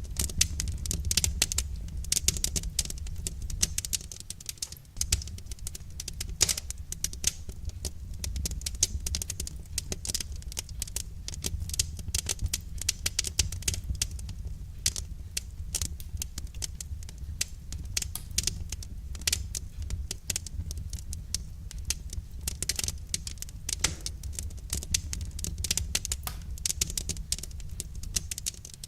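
Wood fire crackling, with dense irregular pops and snaps over a steady low rumble of the burning fire.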